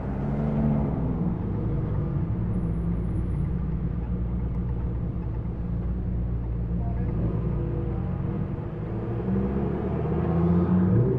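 Supercar engines running as cars drive slowly past, a steady low rumble. A louder engine note rises about nine seconds in.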